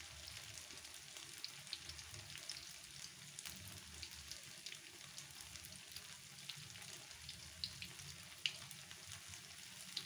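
Corn fritters (bakwan jagung) deep-frying in a wok of hot oil: a steady sizzle with scattered crackling pops throughout.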